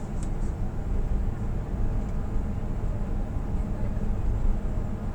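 Steady low rumble of a truck's diesel engine running, heard from inside the cab.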